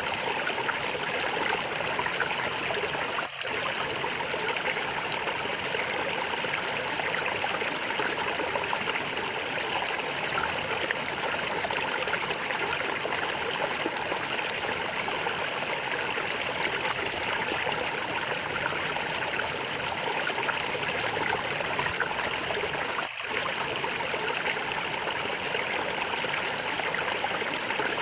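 Stream water gurgling and flowing steadily, with two momentary dips a little after three seconds in and again about twenty seconds later.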